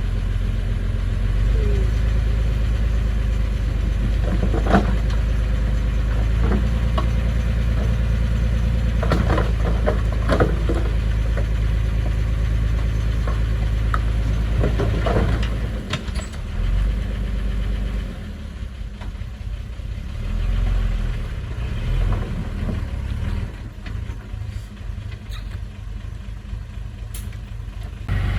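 Construction machine's engine running steadily, with a few sharp metal clanks about 5, 10 and 15 seconds in. After about 16 seconds the engine drops to a quieter, uneven level.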